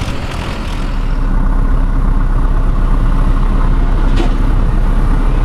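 Tractor-pulling tractor's diesel engine running hard, swelling over the first second and then holding a loud, steady low rumble.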